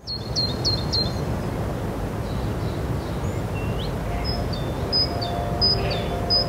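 Small birds chirping over a steady low background rumble of outdoor ambience: a quick run of four short chirps at the start, then a repeated high chirp about once a second. Faint sustained music tones come in about four seconds in.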